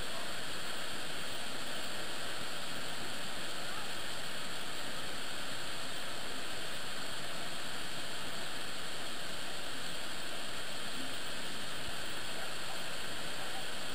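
Niagara Falls: a steady, even rush of falling water.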